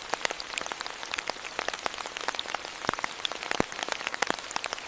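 Steady rain with many distinct drops pattering on a surface.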